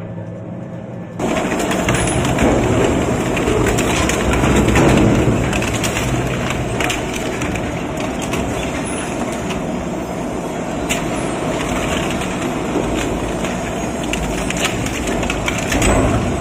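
Multi-function shredder running and breaking up material: a loud, dense grinding full of cracks and knocks over a low rumble, starting suddenly about a second in.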